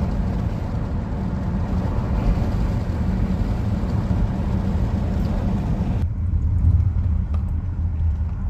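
A car driving, with a steady low rumble of engine and tyres. About six seconds in the sound changes abruptly to a deeper rumble with less hiss.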